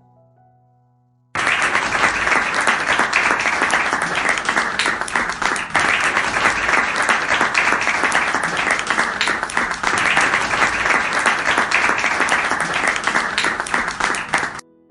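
Recorded applause, a crowd clapping, that starts abruptly about a second and a half in and cuts off suddenly near the end.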